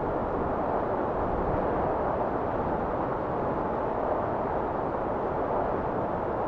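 Blizzard wind blowing steadily, a dull, even rushing noise with no distinct gusts.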